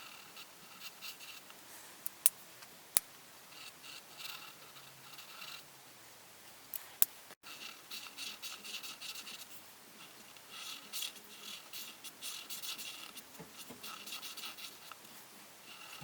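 Coloring strokes on paper: runs of quick back-and-forth scratching from a drawing tool, stopping and starting. There are three sharp clicks, two a couple of seconds in and one about seven seconds in.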